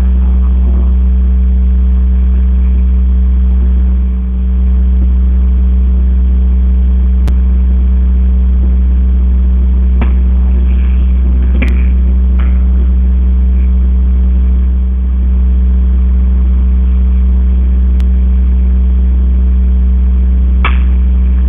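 A loud, steady low hum or drone with a constant higher tone above it, dipping briefly twice. A few sharp clicks cut through it at irregular times.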